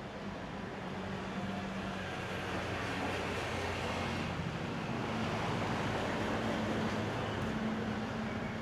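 A motor vehicle passing, a steady low engine drone under road noise that grows louder through the middle and eases slightly near the end.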